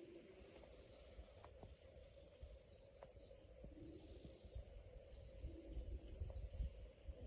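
Near silence: faint steady high hiss of ambience, with a few soft clicks and a cluster of low thumps near the end.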